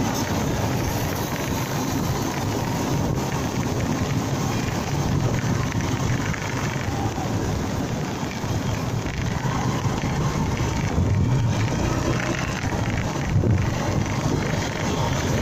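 Steady wind rush over the microphone of a moving motorcycle, mixed with its engine and road noise.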